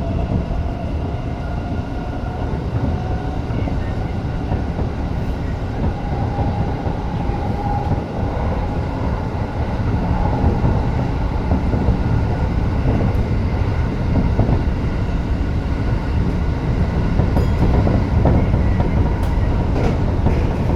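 Tokyo Metro 05 series electric train running between stations, heard from inside the car: a steady rumble of wheels on rail, with a motor whine that rises in pitch over the first several seconds. A few short clicks come near the end.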